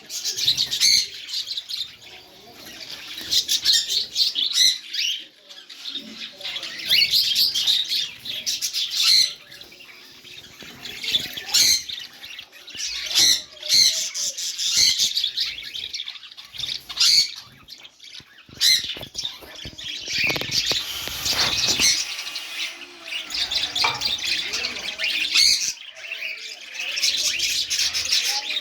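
A colony of budgerigars chattering, many birds calling over one another in a dense warble that swells and dips every second or two.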